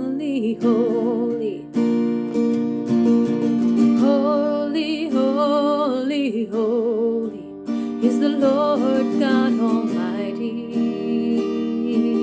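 Acoustic guitar playing chords under a singing voice that holds long notes with vibrato.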